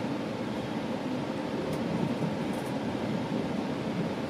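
Steady rumble and hiss heard inside a GO Transit commuter train coach, with a few faint high ticks around the middle.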